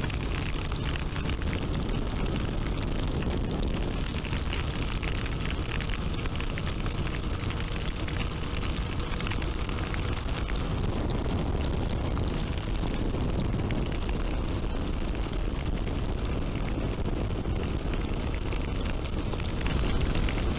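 Steady wind rumble and road noise on the microphone of a motorcycle rider at speed.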